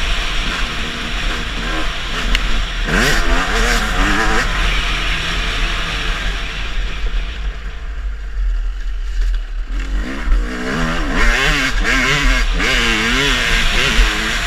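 Motocross bikes running on the track, engines revving, the pitch rising and falling again and again as the riders work the throttle and shift. The engine noise dies down for a few seconds about halfway through, then a bike revs up and down repeatedly toward the end.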